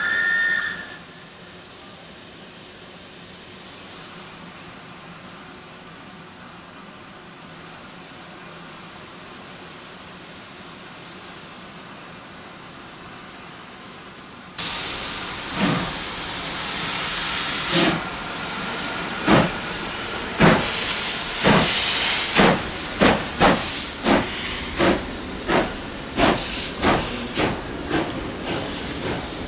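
South African Railways class 25NC steam locomotive: a short high whistle note at the start, then a steady hiss of steam. About halfway through, the exhaust beats begin slowly and quicken steadily as the locomotive starts its train away.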